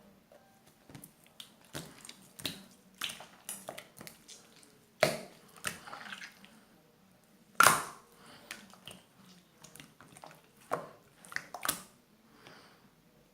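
Slime being squeezed and worked by hand, making irregular sticky clicks and pops, the loudest about five seconds in and again near eight seconds.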